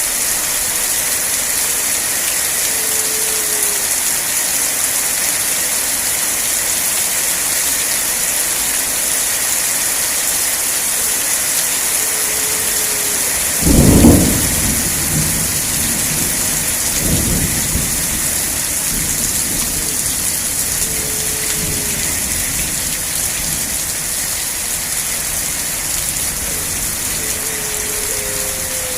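Steady, heavy rainfall hissing without a break. A clap of thunder rolls in about halfway, the loudest moment, followed a few seconds later by a weaker rumble.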